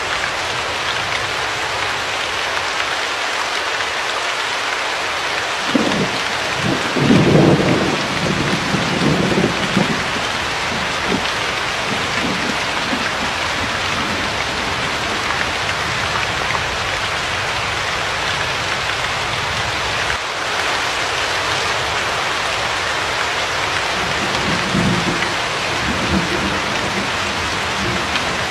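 Steady heavy rain falling, with two low rolls of thunder: a louder one about six to ten seconds in and a softer one near the end.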